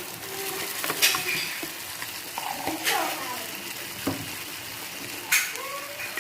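Metal spoons clicking and scraping against plates during a meal, with a few sharp clinks over a steady crackling hiss.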